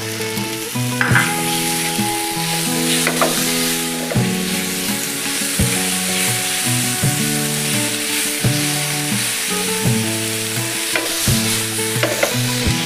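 Onion and tomato frying in a pan with a continuous sizzle, stirred with a wooden spatula that scrapes and knocks against the pan every second or two. Background music plays underneath.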